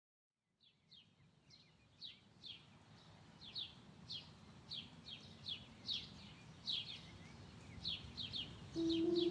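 Birds chirping: a run of short, falling chirps, about two a second, over a faint low rumble, with a soft held music note coming in near the end.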